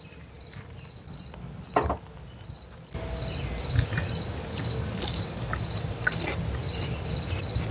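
Crickets chirping steadily in a fast pulsing trill. A single sharp click comes a little under two seconds in, and the low background grows louder about three seconds in.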